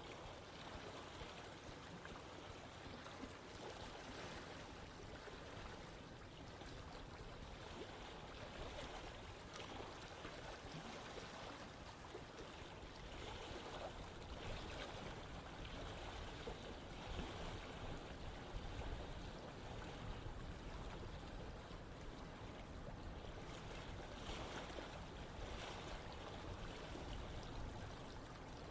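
Running stream water flowing steadily, a continuous rushing with small swells in level.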